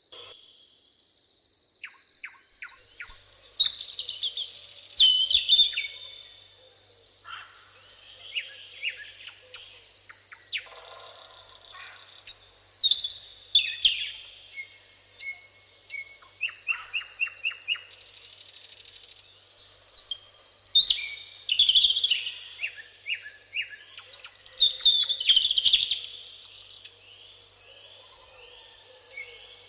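Several birds singing in a summer meadow: loud warbling phrases come and go every few seconds, with quicker repeated chirps between them. A steady high insect trill runs underneath, and two short insect buzzes come about a third and two thirds of the way through.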